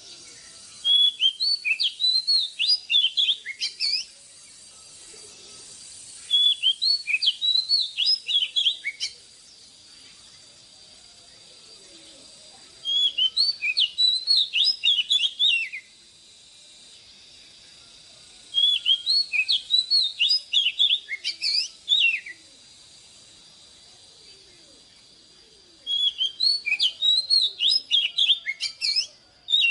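Oriental magpie-robin singing: five phrases of quick, clear whistled notes sweeping up and down. Each phrase lasts about three seconds, with a pause of a few seconds between phrases.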